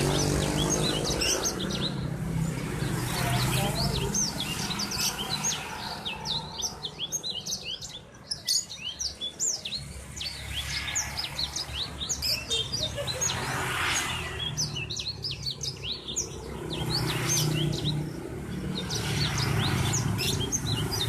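Many small birds chirping and twittering in quick, overlapping short notes throughout, over a low background murmur.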